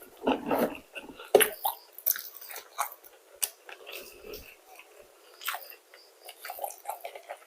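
A person chewing and biting into McDonald's fried food close to the microphone: irregular sharp clicks and mouth smacks, heaviest in the first couple of seconds.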